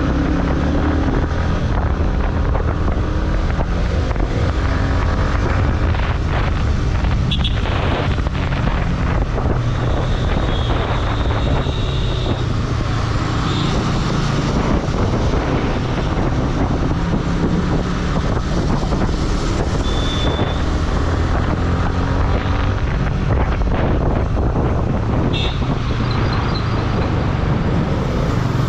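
Motorcycle riding at speed: the engine runs steadily under road noise, with wind noise on the microphone. A few short high beeps sound through it.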